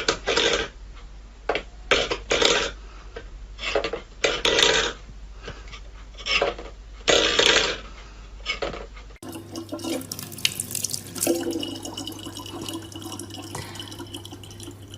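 Water sounds: a series of short splashes, then after an abrupt cut about nine seconds in, a tap running steadily under a low hum.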